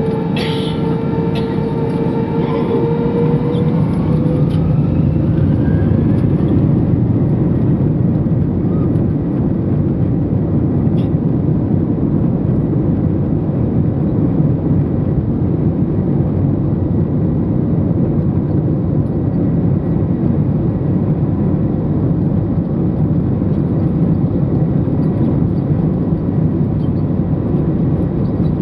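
Jet airliner engines running in a steady, loud, low roar. In the first few seconds a whine rises a little in pitch and then fades away.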